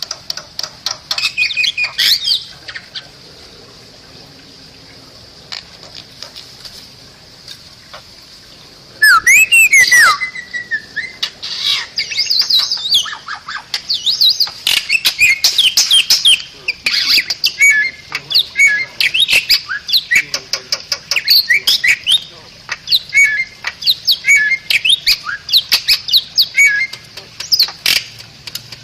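Bali myna singing: harsh squawks, rising whistles and fast chattering notes. A few calls come first, then a lull of several seconds, then a loud burst and near-continuous song.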